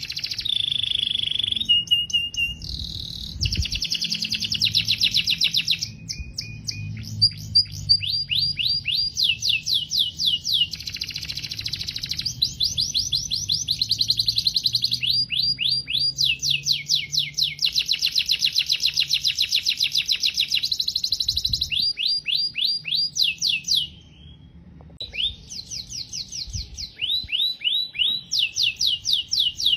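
Domestic canary singing a long song of rapid trilled rolls, each a fast run of the same high note repeated many times a second, switching from one roll to the next, with a short break about three-quarters of the way through.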